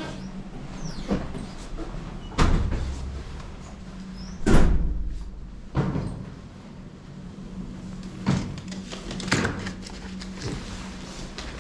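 A series of separate knocks and thumps, the loudest about four and a half seconds in, over a low steady hum.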